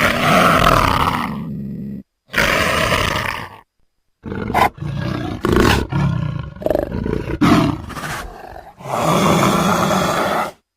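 Big-cat sound-effect clips played back to back: two roars, then a run of short snarls, then a final long roar, each clip cutting off sharply.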